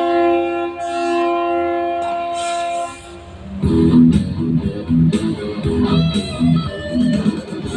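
A long horn blast, one steady chord-like tone lasting about three seconds, sounded as a signal. It is followed by loud rock music with a chugging electric-guitar riff and a steady beat.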